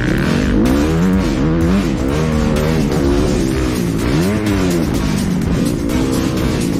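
Motocross bike engine revving, its pitch rising and falling several times as the throttle opens and closes.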